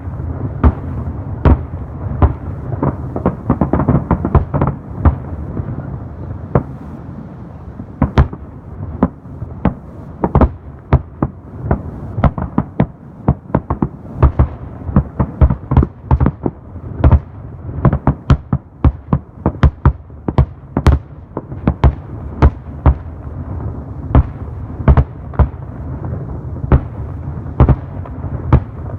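Fireworks display: many sharp shell bursts in quick, irregular succession, each followed by a short echo, over a steady rumble.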